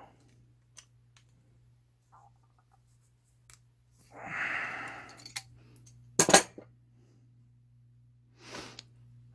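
Handling noises from fitting a reshaped hook on a dishwasher door spring: scattered small clicks, a breathy rush about four seconds in, and one sharp clack about six seconds in, the loudest sound, over a faint steady low hum.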